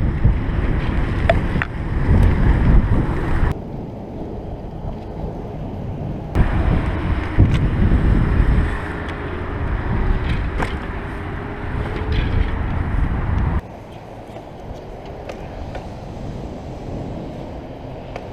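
Wind rumbling on the microphone of a moving bicycle, in loud stretches that cut in and out abruptly, over quieter riding noise, with scattered small clicks.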